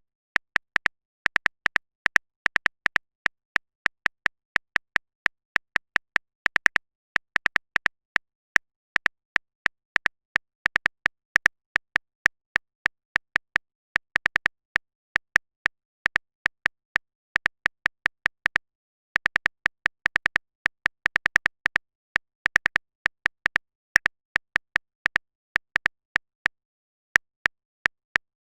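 Phone keyboard typing sound effect: rapid, irregular clicks, several a second, with two short pauses.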